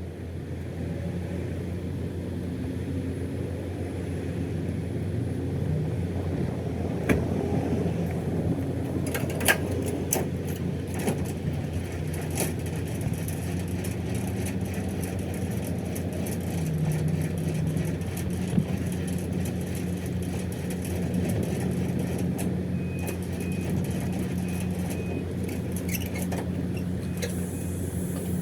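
Freightliner Cascadia semi truck's diesel engine idling steadily, with a scattering of sharp metallic clanks and knocks from a trailer being unhooked. A faint, intermittent high beeping comes in near the end.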